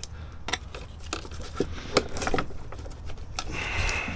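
Scattered clicks, taps and scraping from hand work on engine parts, over a steady low hum, with a brief high whine near the end.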